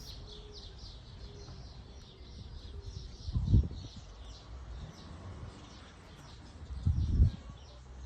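A chorus of birds singing in rapid, repeated high chirps. Two louder low rumbles swell and fade, one about three and a half seconds in and one about seven seconds in.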